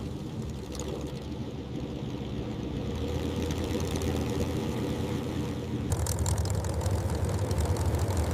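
P-51 Mustang's Merlin V12 engine droning steadily in flight, growing slowly louder. About six seconds in, the sound abruptly turns brighter and harsher.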